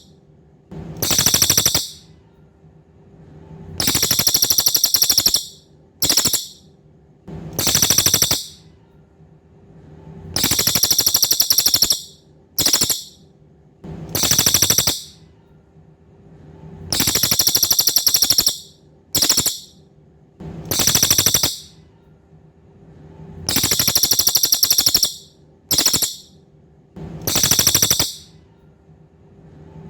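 A cililin songbird singing: bursts of very high, fast trills, each about a second long, in a phrase of a long trill, a short one and another long one that repeats several times. Pauses of a second or two fall between the trills.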